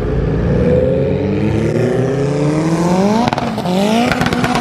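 A car engine accelerating hard, rising in pitch, dropping briefly at a gear change about three seconds in, then climbing again. Sharp exhaust crackles sound around the shift and near the end.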